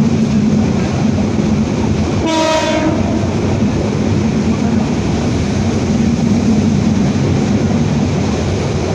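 A passenger train running with a steady low rumble. About two seconds in, the locomotive's horn gives one short blast, under a second long.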